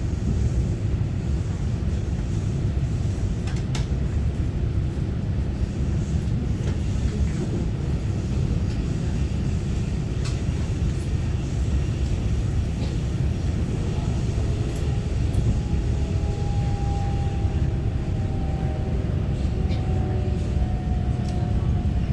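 Steady rumble of an EMU900-series electric multiple unit commuter train running, heard from inside the passenger car, with faint clicks. A faint whine comes in about two-thirds of the way through.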